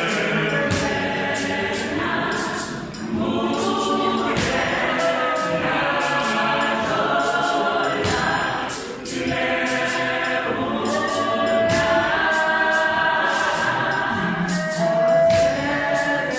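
Gospel choir singing a Sesotho song, several voices together in harmony, over a steady percussion beat.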